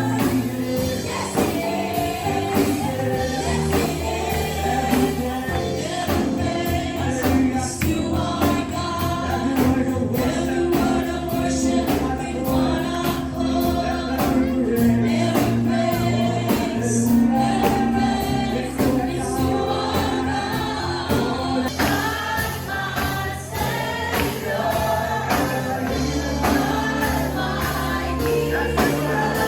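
Congregation and worship band singing a gospel praise song: a choir of voices over a steady bass and drums, with a tambourine in the mix.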